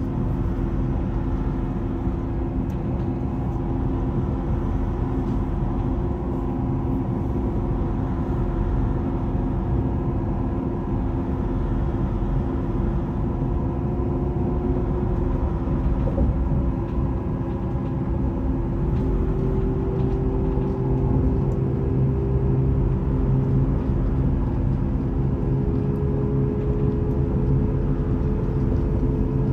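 A Vy passenger train running, with a steady low rumble under several steady whining tones. In the second half the whine steps up in pitch twice and the rumble grows a little louder, as the train picks up speed.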